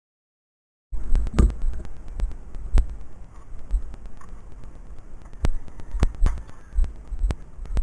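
Silence for about the first second, then low rumbling wind buffeting on the microphone of a moving motorbike rider, broken by irregular sharp clicks and knocks.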